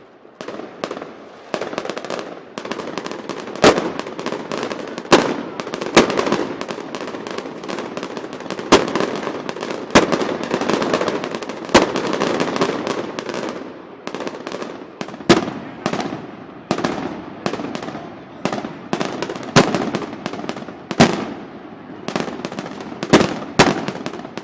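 Gunpowder bangs going off in quick, irregular succession, dozens of sharp reports, a handful much louder than the rest, over a continuous din.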